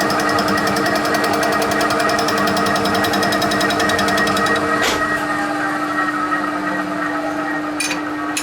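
TOS milling machine running with a fly cutter taking a light pass across an exhaust manifold: a fast, even chatter of the cutter striking the work over the steady hum of the machine. About five seconds in there is a sharp click and the chatter stops, leaving the machine running steadily.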